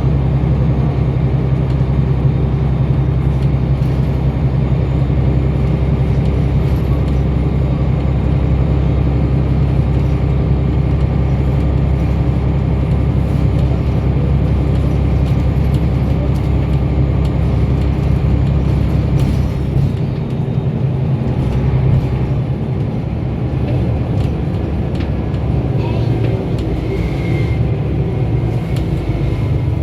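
Scania L94UB bus's diesel engine running under way, a steady deep drone with tyre and road noise. About two-thirds of the way through the deepest part of the engine note weakens.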